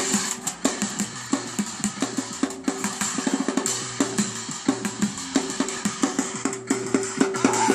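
Fast, dense drumming on plastic buckets, barrels and drums: a busker's bucket-drum groove of rapid strokes, with low tom-like thuds and sharp cracks.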